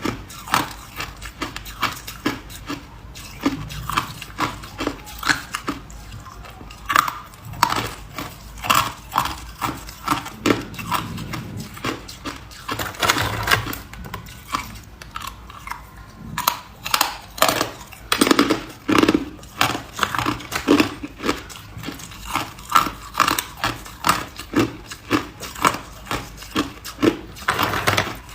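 A person crunching ice in their mouth: a steady run of sharp, crisp crunches, about two or three a second, as the ice cracks between the teeth.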